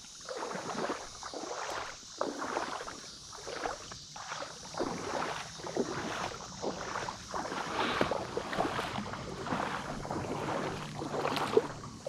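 Legs wading through shallow creek water: a steady series of sloshing splashes, about two a second.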